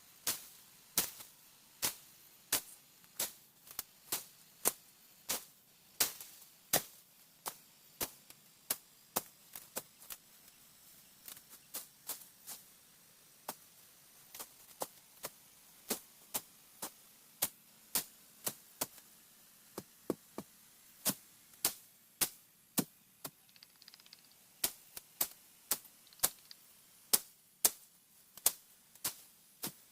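A long series of short, sharp strikes, like chopping, at an uneven pace of about one to two a second.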